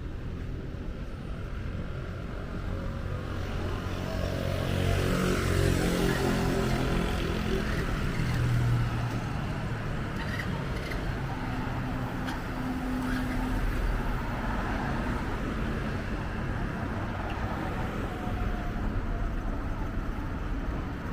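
Street traffic with a motor vehicle passing close by; its engine grows louder about four seconds in and falls in pitch as it goes past.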